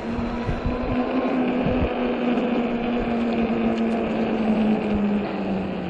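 A 48 V fat-tire e-bike's hub motor humming steadily under power, easing off near the end, over the noise of fat tyres on slush and wind, with a few low bumps in the first two seconds.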